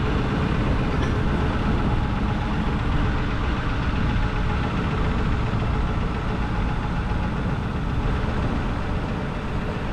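A car driving along a road: a steady mix of engine hum and road noise, heaviest in the low end.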